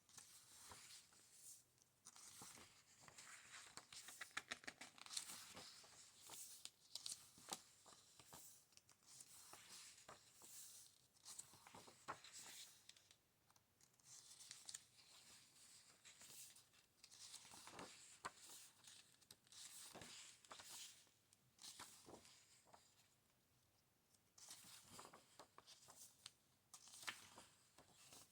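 Book pages being turned and handled: soft, repeated paper rustling and swishes with short pauses between.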